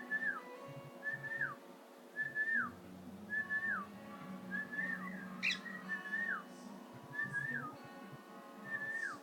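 A short whistled note, repeated about once a second: each one holds briefly, then slides down in pitch. There is a single sharp click about halfway through.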